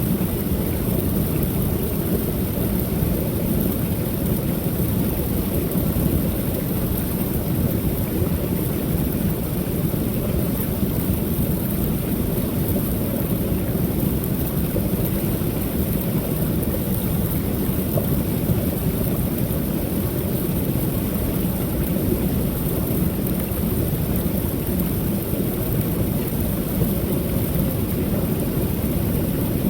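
Creek waterfall pouring steadily, a constant low rushing of falling water.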